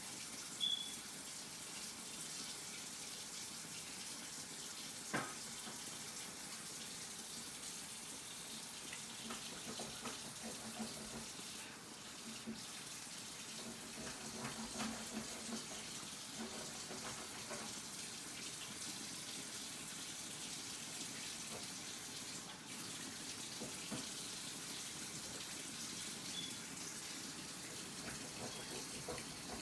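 Kitchen sink tap running steadily while raw chicken wings are washed, with a few small knocks.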